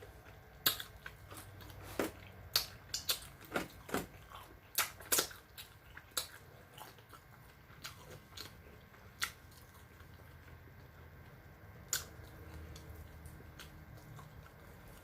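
Close-up eating sounds of crispy lemon pepper chicken wings: sharp crunching bites and chewing, thickest in the first nine seconds, with one last crunch about twelve seconds in.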